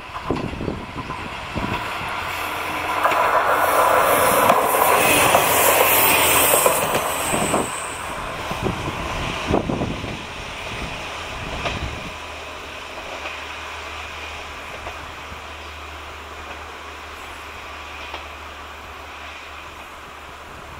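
Red single-car diesel railcar passing close by on a curve: a loud rush of wheels on rail with some high-pitched wheel squeal, a few clacks over the rail joints, then the engine's low, steady hum fading as the car runs off into a tunnel.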